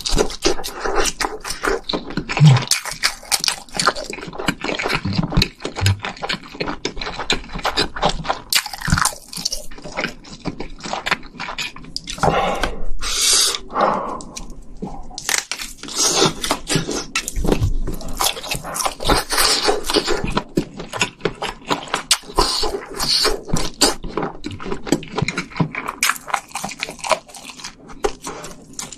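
Close-miked eating sounds: wet chewing and crunching of spicy stir-fried noodles and sausages, a dense, irregular stream of mouth clicks and smacks.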